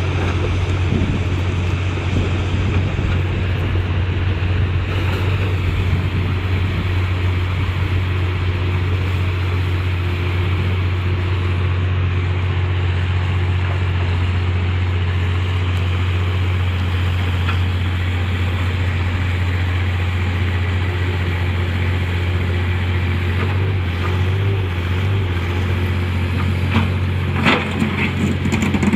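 A vehicle engine running steadily, with a constant low drone, and a few short knocks near the end.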